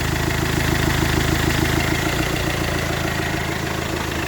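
Iveco Daily van's engine idling steadily, with the engine cooling fan not engaged even though a simulated 100-degree coolant temperature should have switched its clutch on.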